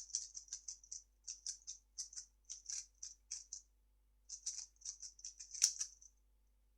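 3x3 speedcube being turned fast: rapid runs of short plastic clicks as the layers turn, with a brief pause around the middle and one louder knock near the end.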